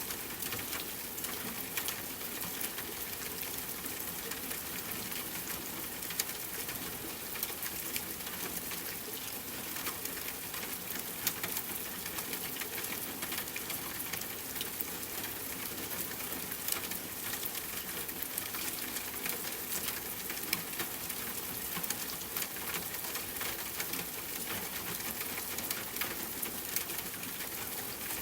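Steady rainfall, a constant hiss, mixed with a wood fire crackling in a fireplace, giving frequent small sharp pops and ticks.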